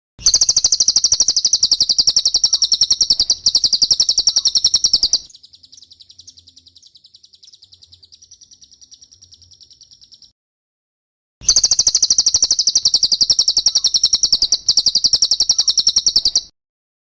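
Recorded song of a cililin bird, used as bird-training song: a loud, very fast, high-pitched trill of rapid repeated notes for about five seconds, then a softer trill for about five more. After a pause of about a second, the loud trill returns for another five seconds.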